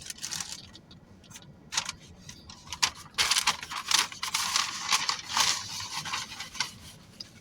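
Food packaging crinkling and rustling as it is handled, with a few faint clicks at first and a dense, crackly stretch of about three seconds in the middle.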